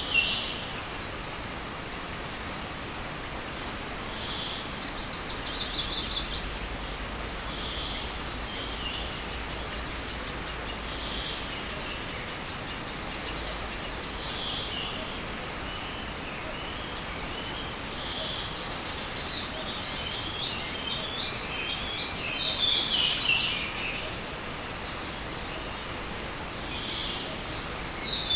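Songbirds singing short, mostly falling phrases every few seconds, with a longer run of song a little past the middle, over a steady rushing hiss from the forest stream.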